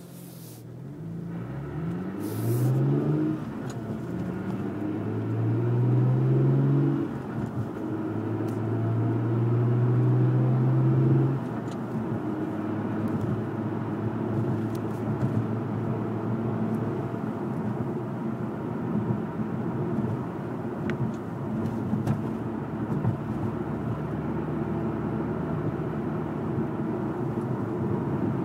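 Lotus Evora's 3.5-litre V6 through the Lotus Sport exhaust under mild acceleration. The engine note rises in each gear and drops at each of a few upshifts over the first dozen seconds, then settles into a steady cruising note.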